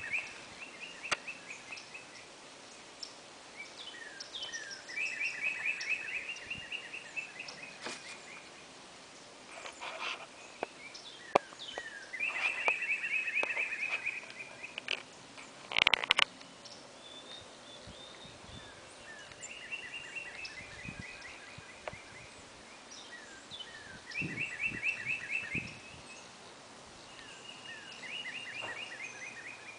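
A songbird singing the same rapid trilled phrase over and over; each phrase lasts about two seconds and comes every five seconds or so. A few sharp clicks fall between the phrases, the loudest about halfway through.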